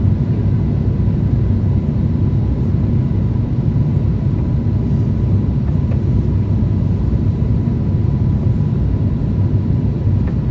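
Steady low rumble of an Airbus A350-1000 airliner, its Rolls-Royce Trent XWB engines and airflow, with a faint steady whine running under it.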